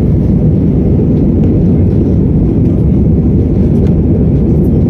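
Steady low rumble of an Airbus A320's two CFM56 engines and rushing air, heard from inside the passenger cabin during the climb just after takeoff.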